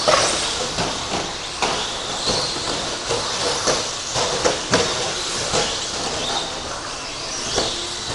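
Several electric 13.5-turn RC stadium trucks running on a dirt track: high motor whine rising and falling, with irregular clattering knocks from the trucks' tyres and chassis.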